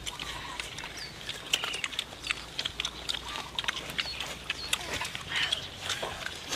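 Crunching and chewing as several people eat roast pig head by hand: many short crisp clicks and cracks, with short high squeaks scattered among them.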